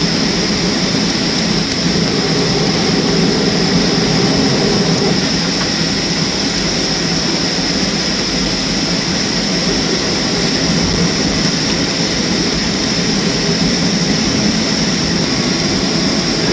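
Steady jet-airliner cabin noise: the Boeing 737-300's CFM56 engines and airflow, heard inside the cabin as an even rumble with a constant high hiss.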